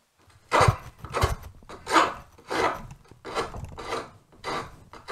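Hand file rasping back and forth across a small piece of wood held in a vise, in regular strokes about one and a half a second. Filed in this direction the wood takes the file cleanly without splitting.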